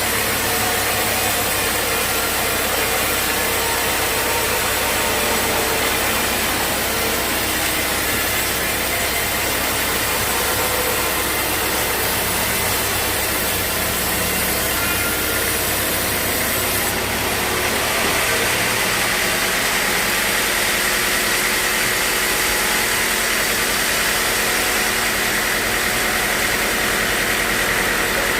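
Sawmill machinery running steadily: a loud, continuous mechanical noise whose tone shifts a little about two-thirds of the way through.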